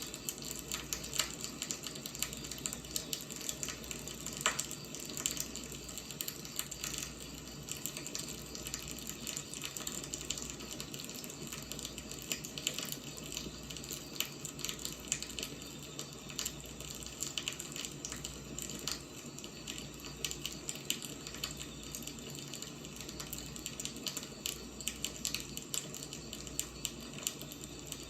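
Wood fire burning, with a steady hiss and frequent irregular crackles and pops from the burning logs.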